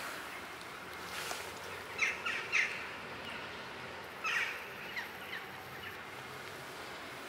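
Birds calling outdoors: two short series of brief calls, three about two seconds in and three or four more a couple of seconds later, over a faint steady outdoor hiss.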